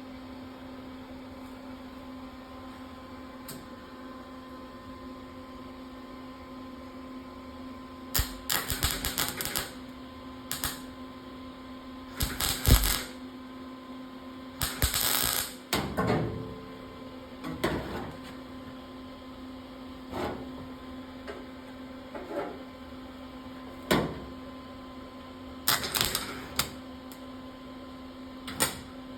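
Wire-feed welder laying short, stop-start beads to fill trim holes in steel body sheet metal: about a dozen brief crackling bursts of arc after a quiet start, one much louder pop near the middle, over a steady electrical hum.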